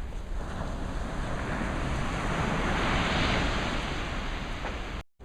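An ocean wave breaking and washing in: a rush of noise that swells to a peak about three seconds in and then fades, over a low rumble of wind on the microphone. The sound cuts off abruptly just before the end.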